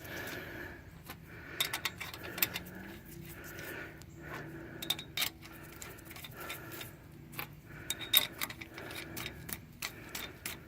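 Steel lug nuts being threaded by hand onto wheel studs, giving a run of irregular sharp metallic clicks and ticks. They are only run on loosely, not tightened.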